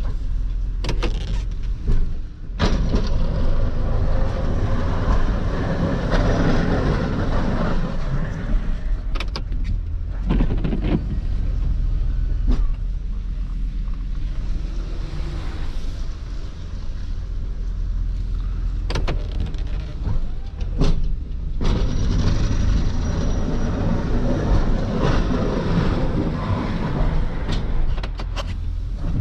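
Plow truck's engine running steadily while scraping a parking lot, with a noisy scrape of the plow blade over the pavement in long stretches and scattered sharp clunks.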